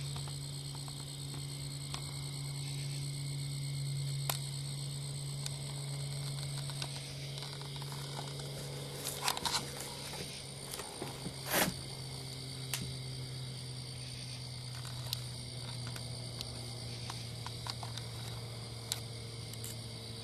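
Insects chirping steadily in the background over a low steady hum, with scattered small clicks and a short cluster of louder clicks and rustles about halfway through.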